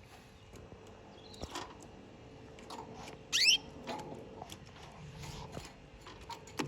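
A canary gives one short, bright chirp about halfway through, amid scattered light clicks and taps.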